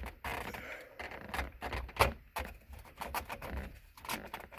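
Hands fitting and working parts into place around a car's steering column: a run of clicks, knocks and rattles, with one sharp knock about two seconds in.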